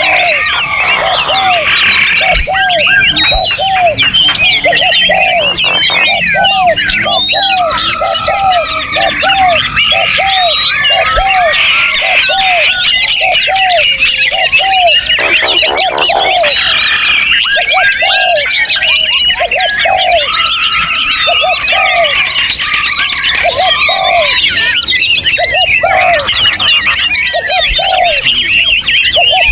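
Many songbirds singing at once in an aviary: a dense chorus of overlapping chirps, trills and whistles. Through it runs a short, low, arched note repeated about twice a second.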